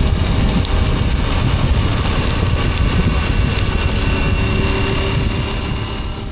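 Dual-sport motorcycle riding along, its engine running under heavy wind buffeting on the microphone, easing off a little near the end.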